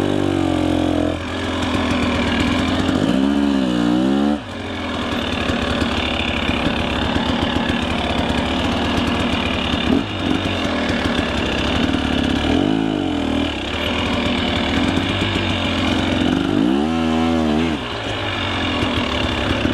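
Two-stroke KTM 300 EXC enduro dirt bike engine running under throttle, its pitch climbing and dropping as the revs are blipped, with two longer rev swells, one a few seconds in and one near the end.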